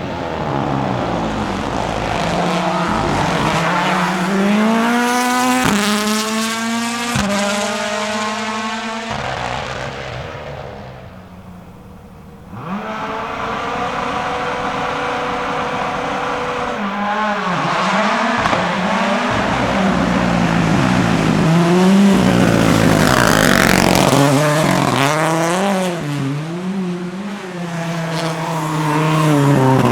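Ford Puma Rally1's turbocharged 1.6-litre four-cylinder engine at full throttle, climbing through several quick upshifts. It fades about ten seconds in, then comes back, its pitch rising and falling again and again as the throttle is worked through a run of corners.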